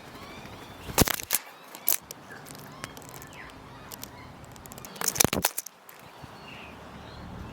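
Faint chirping bird calls, with sharp clicks and knocks breaking in twice in quick clusters, about a second in and again about five seconds in.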